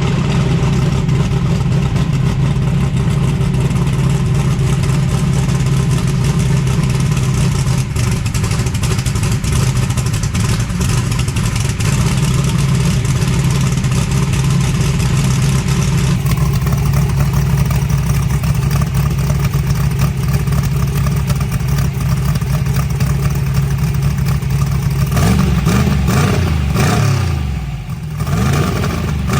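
Drag-racing truck engine running loud and steady at high revs, then revving up and down a few times near the end.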